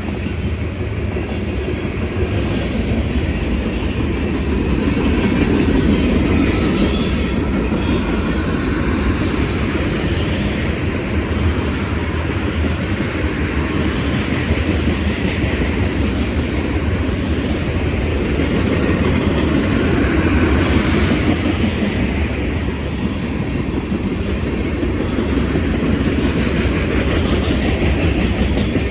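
Union Pacific mixed freight train's cars rolling past, a steady loud rumble and clatter of wheels over the rails, with a brief high-pitched screech of wheels about seven seconds in.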